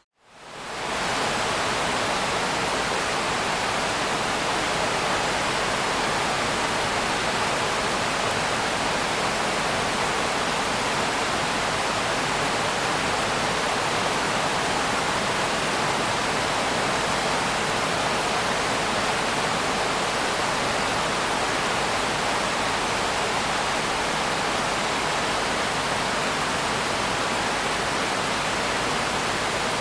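Steady, even rain noise with no separate drops or thunder, fading in quickly from a brief dip to silence at the very start.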